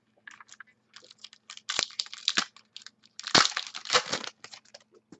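A foil trading-card pack being torn open and its cards handled, heard as irregular crinkling, rustling and small clicks. The sound is busiest about two seconds in and again around three and a half seconds in.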